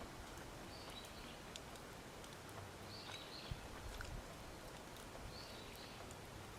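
Quiet outdoor ambience with three short, high bird calls spaced a couple of seconds apart and a few scattered faint clicks.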